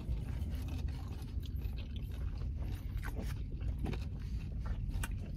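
Close-up chewing of a fried chicken wing, with scattered small mouth clicks and smacks over a low steady hum.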